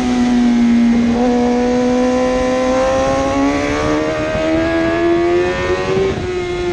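1000cc superbike engine under hard acceleration, its pitch climbing steadily for several seconds, with a short break about a second in and a drop in pitch near the end as the revs come down.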